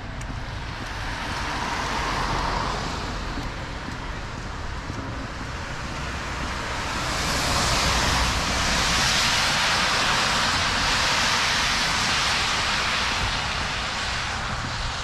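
Road traffic on a wet street: cars passing with a steady hiss of tyres on the wet road. One swells up loudest from about seven seconds in and fades near the end.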